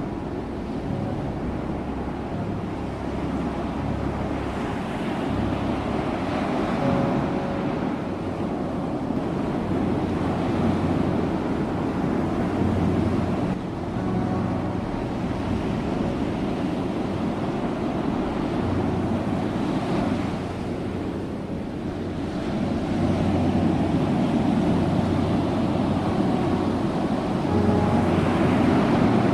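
Ocean surf: waves breaking and washing onto a shore in a continuous rush, swelling louder and easing back every few seconds.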